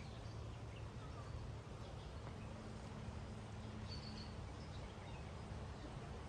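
Faint outdoor ambience: a steady low hum with scattered distant bird chirps, one a little clearer about two-thirds of the way through.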